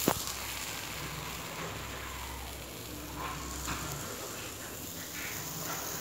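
Ground spice paste of shallot, garlic, coriander and turmeric sizzling steadily in hot oil in a wok over a medium gas flame, the sauté stage before the chicken goes in. A single sharp knock comes right at the start.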